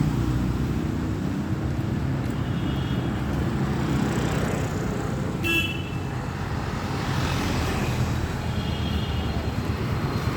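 Road traffic: a steady engine and tyre rumble, with a short horn toot about halfway through and fainter horns before and after it.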